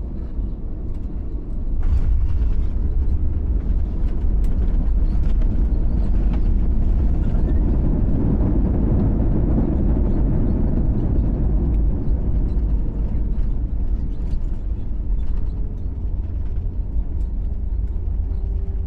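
Airbus A320 cabin noise during landing and roll-out: a loud, deep rumble that rises sharply about two seconds in, swells in the middle and slowly eases toward the end.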